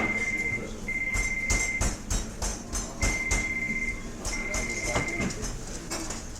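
A phone ringing: a high electronic tone in pairs of roughly one-second rings, the pair repeating about three seconds later, over the clink and clatter of cutlery and dishes.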